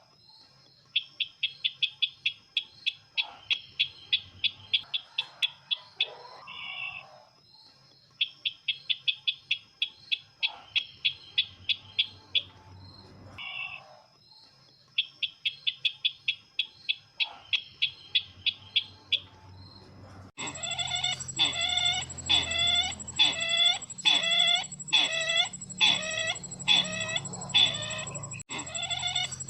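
Recorded calls of the bird known locally as sisintar ladang, played as a trapping lure: bouts of rapid high chattering notes, about ten a second, each bout lasting a few seconds, over a steady faint high tone. About twenty seconds in it switches to a slower, fuller repeated call of about two notes a second.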